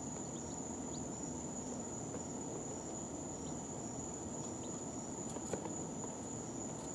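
Brooder of two-day-old chicks: a few faint, scattered peeps over a steady high-pitched whine and a low background hum, with one sharp tick about five and a half seconds in.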